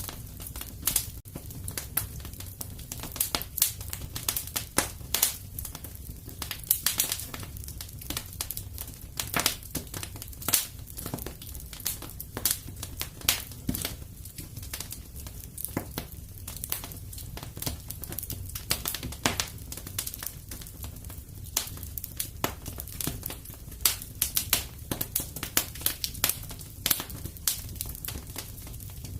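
Wood fire crackling in a fireplace: irregular sharp pops and snaps, often several a second, over a steady low rumble of the flames.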